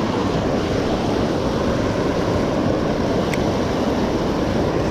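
Creek water rushing steadily, a loud even rush of flowing water.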